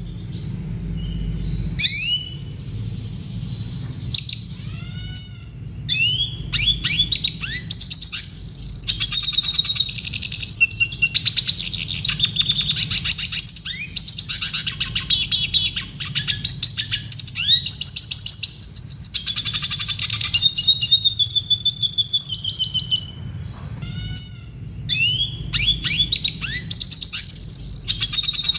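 Red siskin singing: separate upward-sweeping chirps at first, then from about eight seconds in long, fast, twittering trills with brief pauses. A low steady hum runs underneath.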